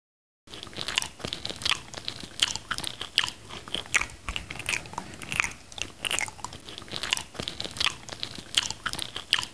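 Close-up mouth sounds of a person biting and chewing mango slices: a dense run of short, sharp clicks, starting about half a second in.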